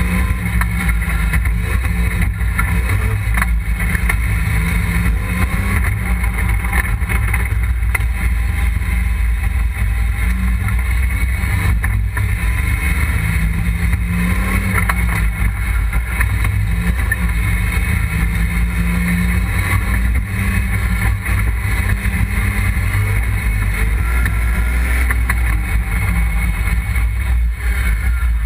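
Super Stalker open-cockpit kit car's engine running hard under full throttle, its note swelling and easing as the driver works the throttle. Wind buffeting in the open cockpit adds a steady low rumble.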